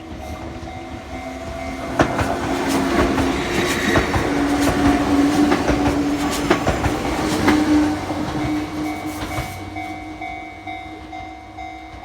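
An Enoden (Enoshima Electric Railway) train passes over a small level crossing, its wheels clacking over the rail joints and its motors humming, loudest in the middle and fading away near the end. The crossing's warning signal rings steadily before, during and after the train.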